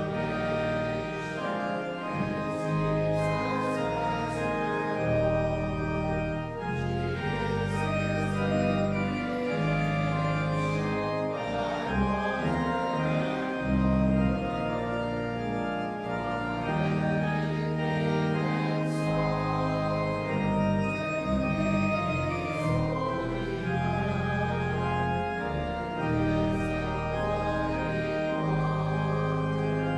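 Organ music: sustained chords held over a bass line that moves every second or two.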